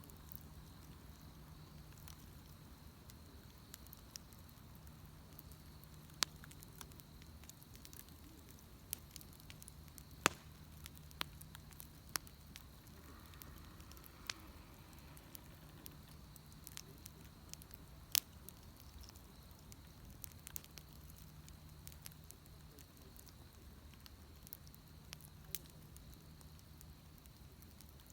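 Wood bonfire crackling, with irregular sharp pops; the loudest come at about 6, 10 and 18 seconds in. A faint steady low hum lies underneath.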